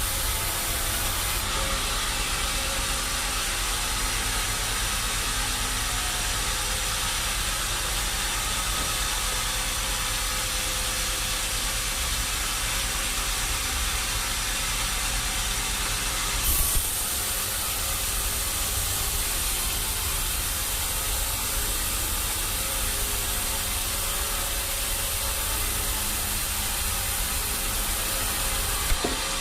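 Steady hissing, rumbling noise of running machinery. About sixteen seconds in there is a brief louder knock and the hiss abruptly changes, and there is another short knock near the end.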